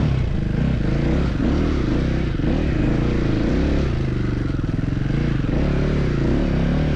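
Motorcycle engine running under load, its pitch rising and falling repeatedly as the throttle is opened and closed.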